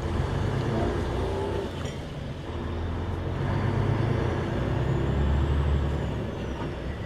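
Diesel engine of a moving truck tractor unit, heard from inside the cab as a steady low drone under tyre and road noise, swelling slightly in loudness partway through.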